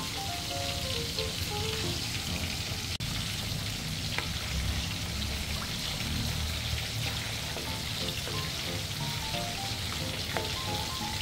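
Pork meatballs deep-frying in hot oil in a steel wok: a steady, dense sizzle and crackle of bubbling oil. A light melody of background music plays under it at the start and again near the end.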